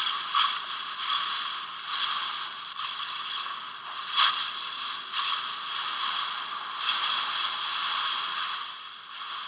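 Hurricane-force wind blowing as a harsh hiss that surges and eases in gusts, with stronger surges about two, four and seven seconds in.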